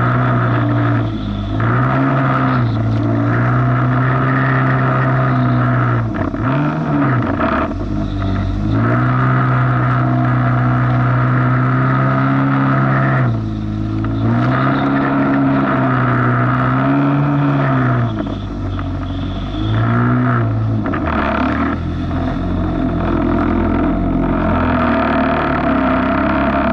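Jet ski engine running at speed over rough waves, with wind and water rushing; its note dips and recovers several times and settles lower for the last few seconds.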